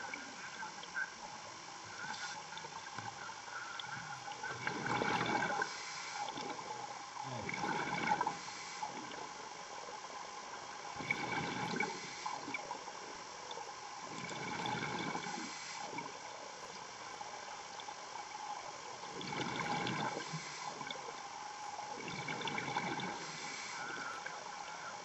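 A diver's underwater breathing: exhaled air bubbling out in swells every three to four seconds, over a steady faint hum.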